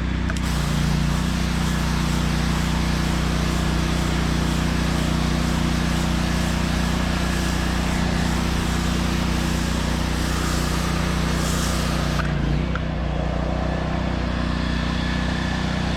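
Gas pressure washer running steadily, its spray wand hissing as it blasts water onto concrete; the spray cuts off about twelve seconds in while the engine keeps running.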